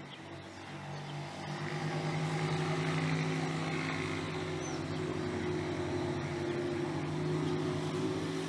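An engine running steadily with a low, even hum that grows louder over the first two seconds and then holds.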